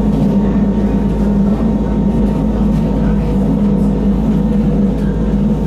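Steady running noise of a Wengernalpbahn rack-railway train climbing, heard from inside the carriage: an even drone with a deep rumble beneath and a faint whine above, with no change in level.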